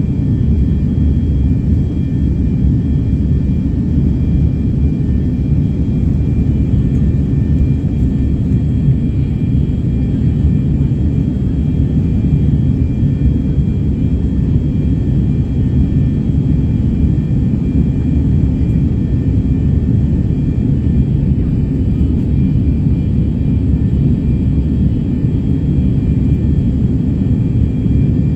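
Jet airliner cabin noise: a steady, loud low rumble of engines and airflow with a faint, steady high whine above it, unchanging throughout.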